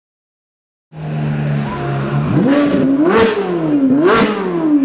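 Ferrari 458's V8 through an iPE exhaust, idling and then blipped twice, the pitch rising sharply to two peaks about a second apart and falling back each time. It starts about a second in, after a moment of silence.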